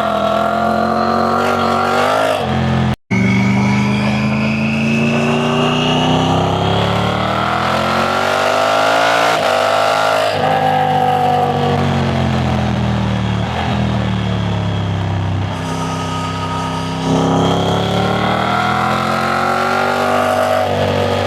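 Triumph Tiger 900 Rally Pro's three-cylinder engine pulling under load while riding, its pitch climbing steadily for several seconds, easing off, then climbing again. The sound cuts out for an instant about three seconds in.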